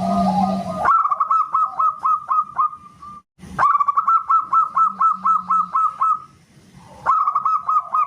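Zebra dove (perkutut) cooing: rapid runs of short, whistle-like notes, about five a second, in three bursts with sudden breaks between them. A lower warbling call comes first, in the opening second.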